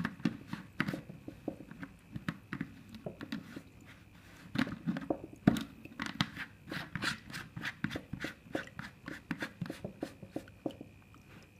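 Plastic lid being handled and fitted onto a plastic container, with many irregular clicks and knocks, over a faint steady high whine.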